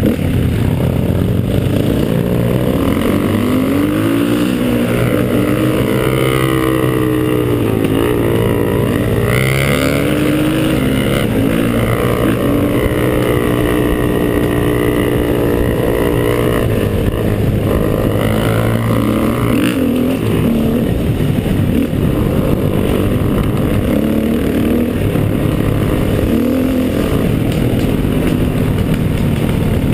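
Trail motorcycle engine running hard on an uphill climb. Its pitch rises and falls over and over as the throttle is worked.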